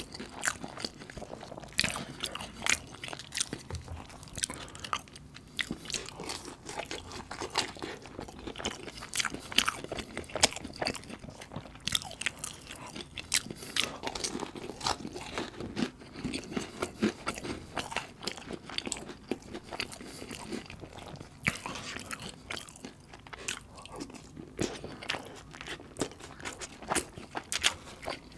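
Close-miked eating: biting and chewing a sauce-dipped samosa, with many sharp crunches from the crisp pastry and wet mouth sounds, irregular throughout.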